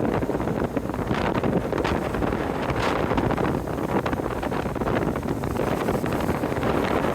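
Wind buffeting the microphone aboard a moving car ferry, a steady rush with brief gusts, over the ship's running noise.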